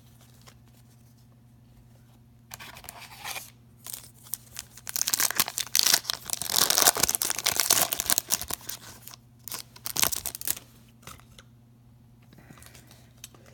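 A foil trading-card pack is torn open and its wrapper crinkled. It makes a run of crackling, tearing and rustling noises that starts about two and a half seconds in, is loudest in the middle and dies away after about eight seconds.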